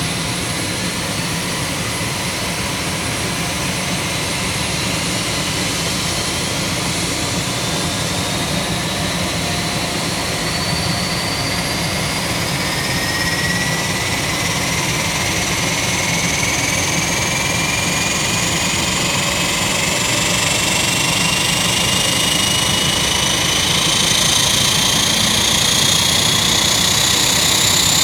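Lockheed P-3C Orion's Allison T56 turboprop engine starting: a steady rush of turbine noise with a whine that rises slowly and evenly in pitch as the engine spools up, getting gradually louder.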